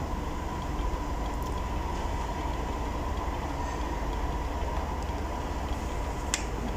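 Steady rushing roar of the Rain Vortex, a very tall indoor waterfall pouring into its basin, with one sharp click near the end.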